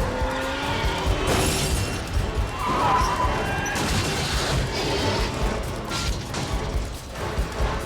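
Car-chase film soundtrack: cars running hard, with several sudden crashing, smashing impacts over music.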